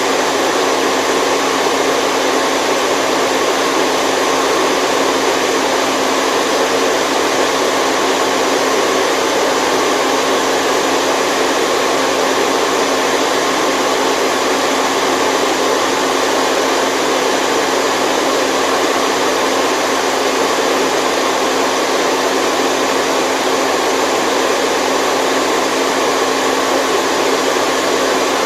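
Steady white noise for lulling a baby to sleep: an even, unchanging rushing hiss with little bass and a faint low hum running under it.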